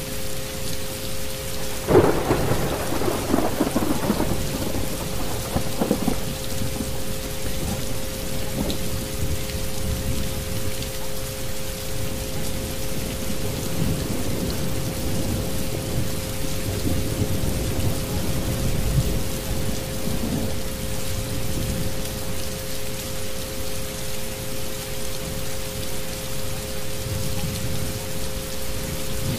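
Thunderstorm soundscape: steady rain with a thunderclap about two seconds in that rolls on for several seconds, and softer rumbles later. Two steady tones, the track's isochronic frequencies, hold under it throughout.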